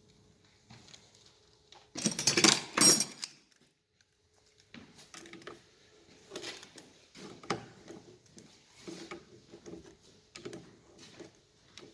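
Metal hand tools working on a steering rack's tie rods: a loud clatter lasting about a second, about two seconds in, then irregular clicking and rattling.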